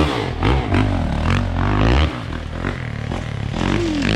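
Yamaha YZ450 dirt bike engine running, with some clatter and scraping; the sound drops in level about two seconds in.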